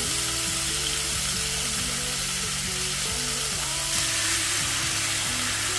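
Thin marinated chicken breasts frying in hot olive oil in a pan, a steady sizzle.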